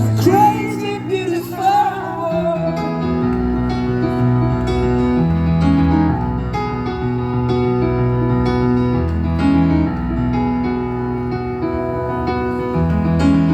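Keyboard playing sustained piano-like chords that change every second or so, with a man's singing voice holding a wavering line for the first two seconds.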